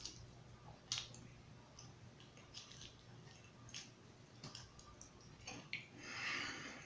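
Faint, scattered wet mouth clicks and smacks of a person chewing seafood-boil food, with a short soft hiss about six seconds in.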